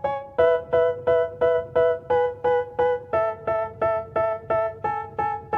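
Background music: a piano-like keyboard loop of repeated chords struck about twice a second, the chord changing twice, in a hip-hop track with no rapping at this point.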